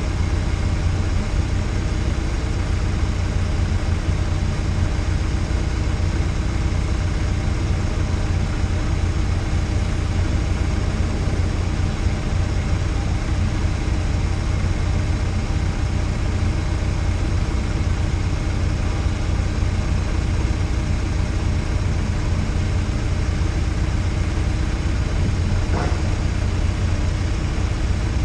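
Peugeot 306 GTi6's four-cylinder engine idling steadily while the car sits stationary, with a deep low rumble and no revving.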